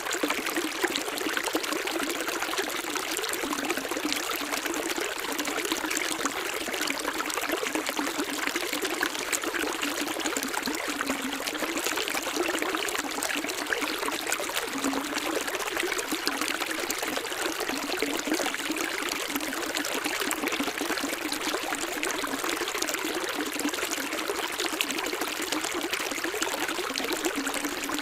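Running water trickling and pouring steadily, like a small stream over stones, with no breaks or changes.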